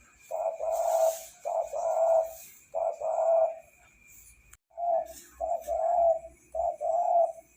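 Spotted dove cooing: six or seven mellow, low notes in two runs, with a brief pause and a click a little past halfway.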